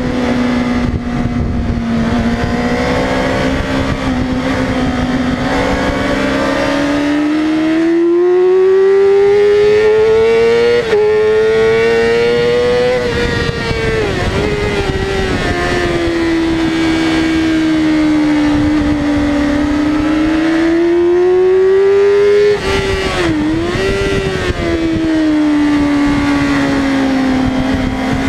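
Yamaha R6 sport bike's inline-four engine at racing pace, heard from on board: its pitch climbs steadily under throttle and falls off as it slows, with sharp brief dips about halfway through and again near the end.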